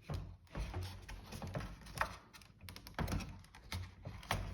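Small irregular clicks and taps of plastic parts being handled and fitted together while reassembling a refrigerator's ice-maker water pump and its hose connection.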